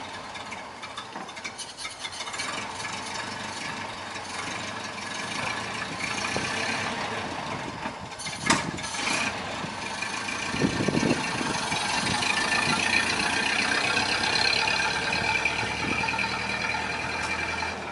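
Ford Model A's four-cylinder engine running steadily, with a sharp click about eight and a half seconds in and a few low thuds just after.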